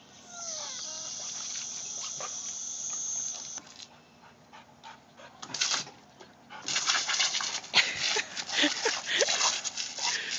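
Garden hose spraying water with a steady hiss for about three seconds, then spraying and spattering again from about the middle onward. A chocolate lab puppy gives a few short whines near the start.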